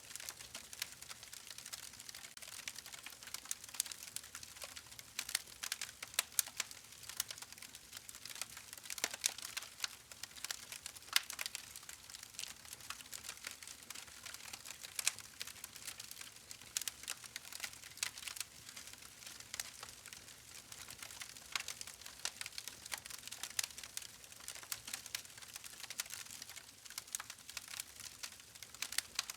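Wood fire crackling: a dense, irregular run of small sharp pops and snaps, with a faint hiss beneath.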